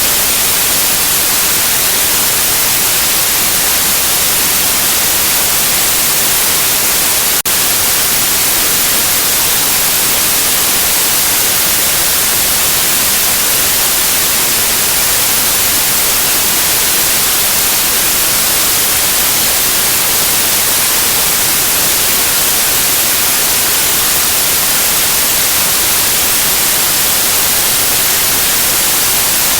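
Steady synthetic white noise: an even hiss, strongest in the high end. A single brief tick about seven seconds in breaks it.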